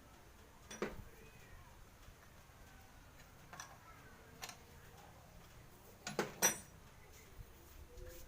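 A few sharp, faint clicks and knocks: one about a second in, two spaced ones in the middle, and a quick cluster of three about six seconds in, the last ringing briefly.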